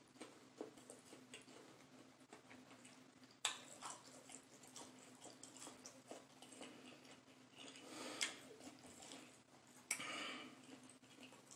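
Faint chewing of a sauce-covered chicken nugget: soft, irregular wet mouth clicks, with a louder short noise about three seconds in and again about ten seconds in.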